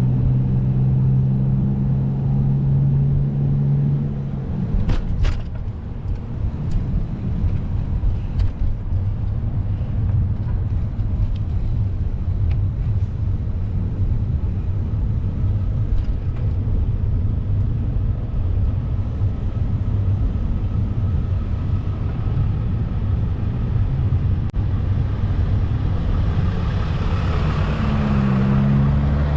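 Steady low rumble of road traffic and wind, with a vehicle engine's steady hum over it for the first four seconds and a few sharp clicks about five seconds in.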